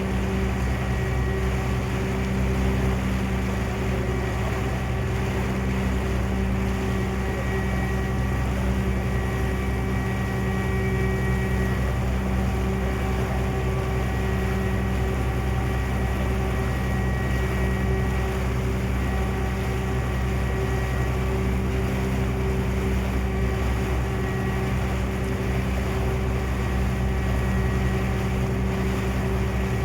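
A passenger ferry's engine running steadily while under way: an even drone with several fixed steady tones over a constant rushing noise.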